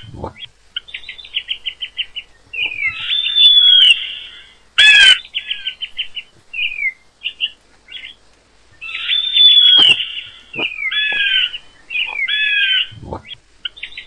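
Songbirds calling loudly and repeatedly: clear, curving whistled notes alternating with rapid stuttering trills. A few short sharp knocks come in between, the loudest about five seconds in.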